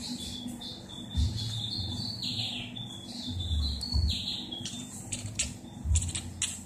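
Small birds chirping, a high thin call repeating in short pieces, with a few low thumps underneath.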